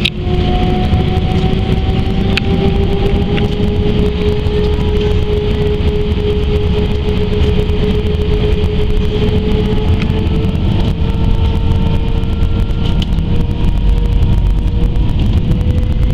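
Airbus A320's CFM56 jet engines running, heard inside the passenger cabin: a steady low rumble with an engine tone that rises slowly in pitch.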